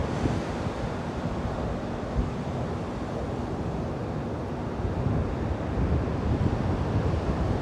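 Wind buffeting the microphone in gusts over the steady wash of ocean surf on the beach.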